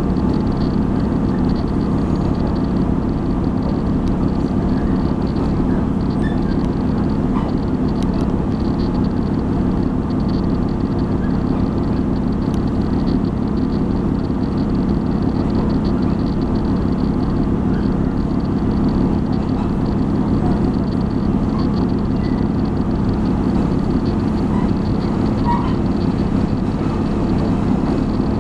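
Steady rumble of a Taiwan Railway passenger train running along the line, heard from inside the carriage, with the low noise of wheels and running gear on the track.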